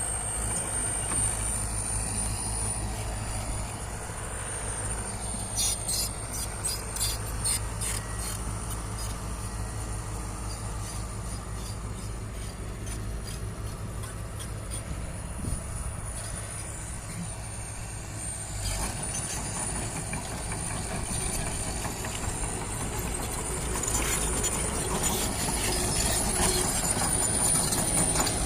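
Heavy diesel earthmoving machinery running steadily, a low engine rumble with a thin high whine over it. A run of rapid clattering ticks comes about six seconds in, and the sound grows louder near the end.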